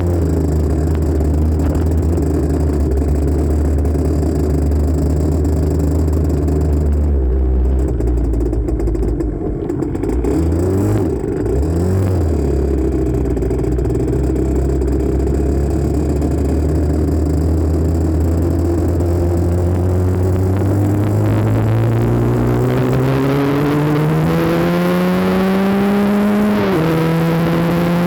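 1984 Honda CR80R's two-stroke single-cylinder engine under way: it holds a steady note, falters briefly with a few short rises and falls about a third of the way in, then revs steadily higher over the last several seconds before dropping suddenly and holding. The sound is poor-quality, picked up through a phone on a handlebar mount.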